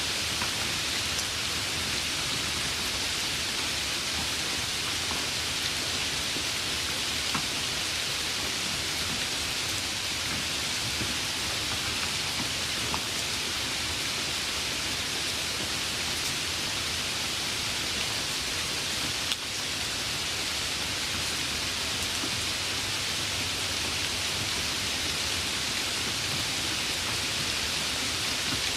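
Steady, even rain hiss with scattered faint drop ticks and one sharper click about two-thirds of the way through.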